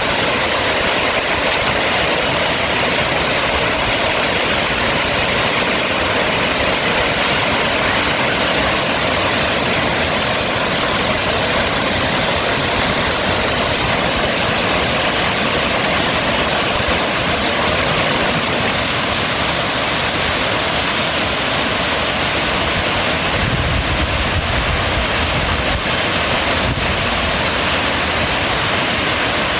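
Steady rushing water, like a waterfall or fast stream, heard close. A deeper rumble joins it for a few seconds near the end.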